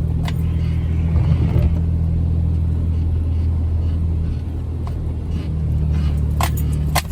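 Jeep Wrangler engine running steadily under load while it pushes through deep snow, with a brief change in pitch about a second in. Scattered light rattling clicks can be heard over it.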